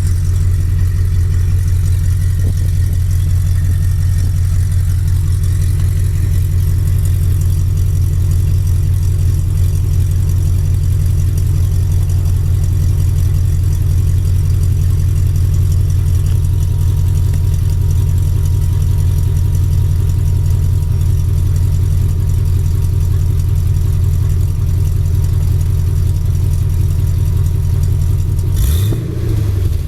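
2001 5.3-litre Vortec V8, swapped into a 1985 GMC truck, idling steadily through 2010 Camaro headers and MagnaFlow mufflers with a deep, even exhaust note. Near the end the pitch briefly rises.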